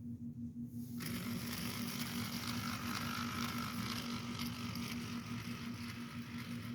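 Small battery-powered DC motor and worm gear of a homemade Lego locomotive whirring as it drives the wheels, starting up about a second in, over a steady low hum.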